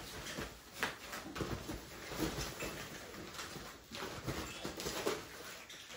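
Five-week-old Aussiedoodle puppies moving about their pen: scattered light clicks and scuffles of small paws, with faint puppy noises.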